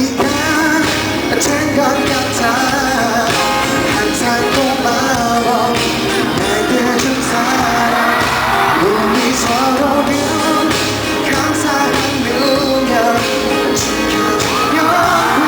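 Live pop concert music: a voice singing over a band with a steady beat.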